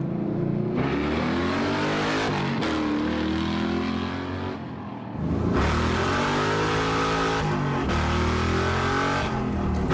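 Muscle car engine revving, its pitch climbing and falling over several pulls, with a short lull about five seconds in.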